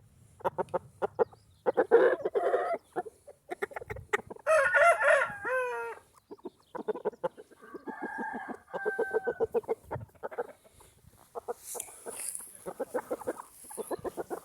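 Shamo gamecocks clucking in repeated short bursts, with one cock crowing loudly about four seconds in, its call dropping in pitch at the end.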